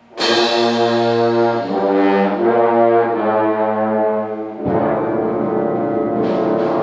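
Concert band opening a piece with a sudden loud entry of held brass chords that change every second or so. About four and a half seconds in the full band comes in with a denser sound, and a few percussion strokes follow near the end.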